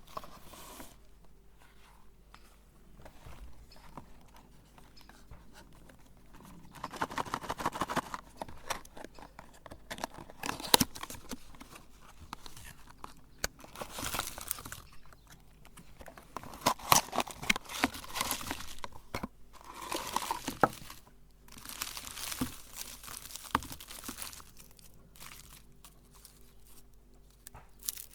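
Meat grinder crunching chocolate candy, a dense crackling in repeated bursts of a second or two with quieter gaps between.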